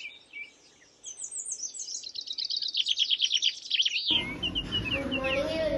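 Small birds chirping in quick series of high, falling trills. About four seconds in, the sound switches abruptly to a noisier recording, with a low wavering tone beneath more chirps.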